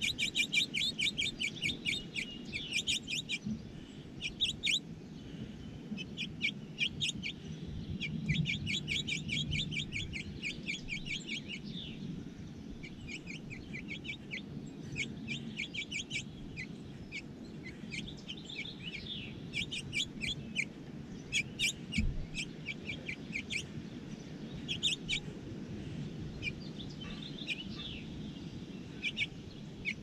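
Small birds chirping: rapid runs of short, high chirps, about ten a second, coming in bursts of a second or two again and again.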